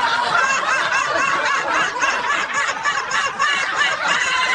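People snickering and chuckling, held-in laughter that goes on without a break and cuts off abruptly at the end.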